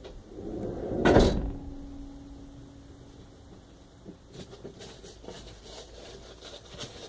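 Metal handling noises while a carburetor is primed by hand. A sliding scrape ends in a loud metal clunk about a second in, which leaves a steady ringing tone for a couple of seconds. Light clicks and fiddling follow.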